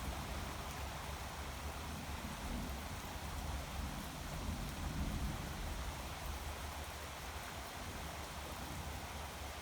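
Steady hiss of rain with the low rumble of thunder rolling beneath it, dying down near the end.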